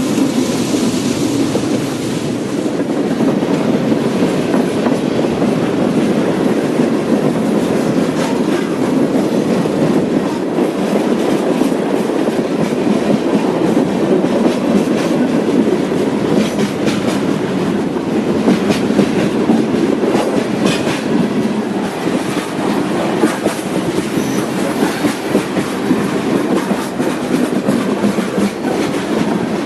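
Freight train cars of an eastbound CSX mixed freight rolling past close by. It is a steady loud rumble, with the wheels clicking over the rail joints again and again.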